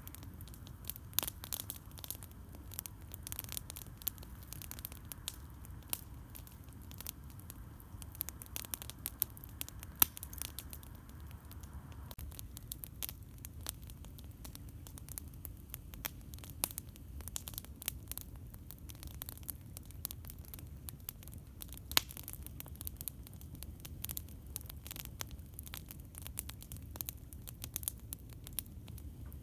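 Campfire crackling and popping in irregular, rapid snaps, with a couple of much louder pops, about a third of the way in and again near three-quarters, over a steady low rumble.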